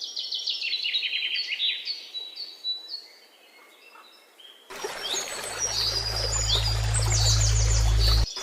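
Small birds chirping in quick trilled phrases. A little past halfway a steady rushing noise with a low hum starts suddenly; the birds go on calling over it, and the noise cuts off abruptly just before the end.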